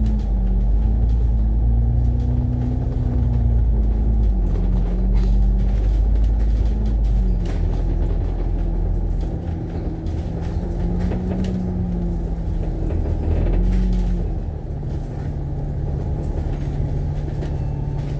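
Double-decker bus engine, an Alexander Dennis Enviro500, running at low speed with its pitch rising and falling for about fourteen seconds. Near the end it settles to a steady idle.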